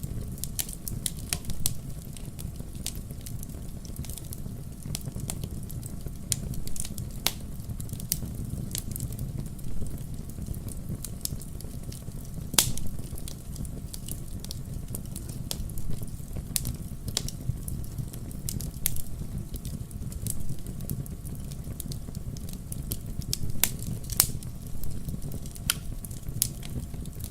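Campfire burning, with a steady low rumble of flame and frequent sharp crackles and pops from the burning wood, a few louder pops standing out.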